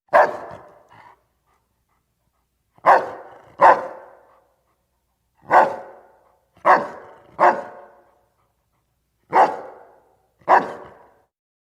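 A dog barking: eight short, single barks, some in quick pairs, with pauses of one to two seconds between them.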